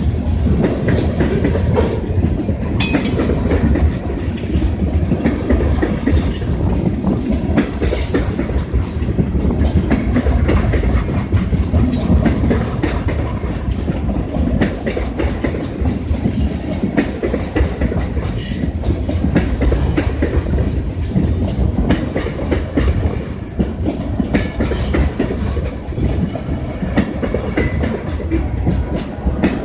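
Railroad cars of a Western New York & Pennsylvania (WNYP) train rolling past, the wheels clicking steadily over the rail joints over a continuous low rumble, with a few brief faint squeals.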